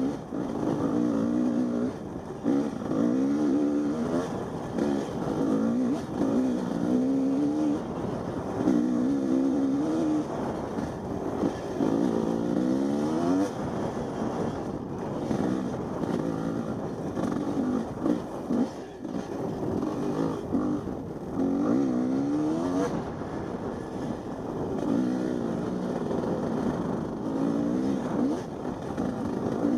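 Two-stroke Husqvarna 250 dirt bike engine being ridden, its revs rising and falling over and over as the throttle is opened and closed.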